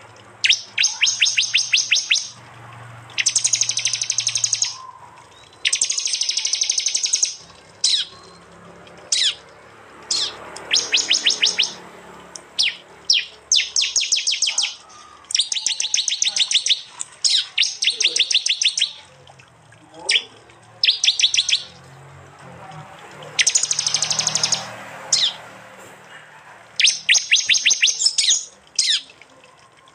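Prenjak (prinia) calling in loud, rapid ticking trills, each phrase lasting one to two seconds and repeated over and over with short pauses, some cut down to a single short burst: the sharp 'tembakan' call used to train songbirds.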